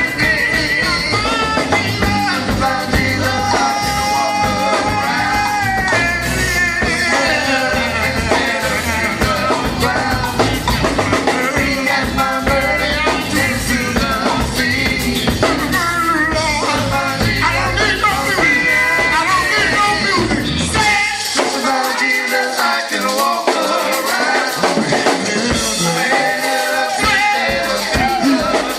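Gospel quartet music: singing over a band with a strong bass line. About three-quarters of the way through, the bass drops out for a few seconds, then comes back in.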